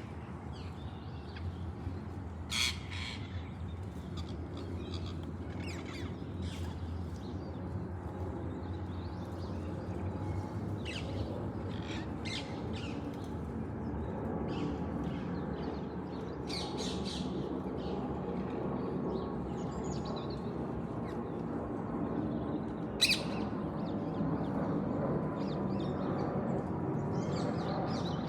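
Parrot squawks and short calls at irregular intervals, the sharpest about two and a half seconds in and again near twenty-three seconds, over a steady low rumble.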